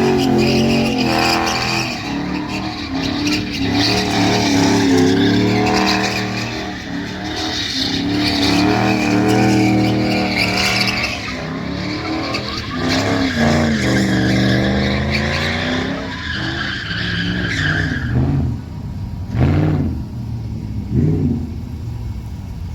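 Truck engine revving, its pitch repeatedly falling and climbing, with tires squealing through most of it. Near the end the squeal stops and the engine gives a few short rev blips.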